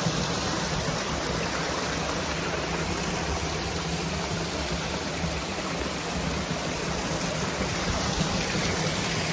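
Steady rush of water from a moorland waterfall and its stream.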